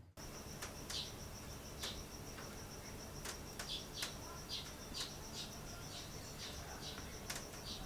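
An insect chirping in a steady, rapid, even pulse, with scattered sharp clicks.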